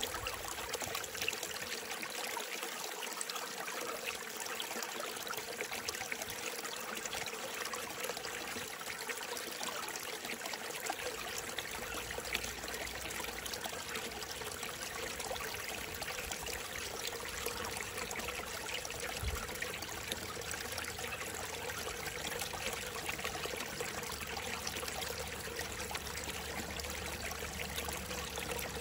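A small mountain stream, fed by mist and rain, trickling and running steadily.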